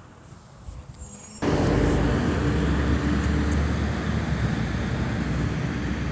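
Garbage truck engine that comes in suddenly about a second and a half in and then runs loud and steady, with a low drone and a faint whine above it.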